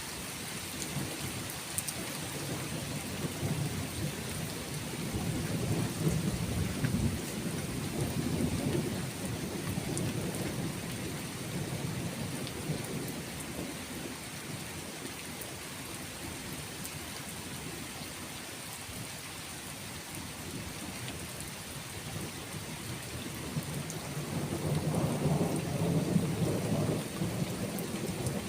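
Steady rain with rolling thunder: a long low rumble swells and fades over the first ten seconds, and a second rumble builds near the end and is the loudest part.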